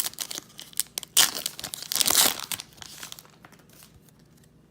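Crinkling and tearing of a foil trading-card pack wrapper as it is handled and opened, in sharp bursts about a second in and again around two seconds, then settling down.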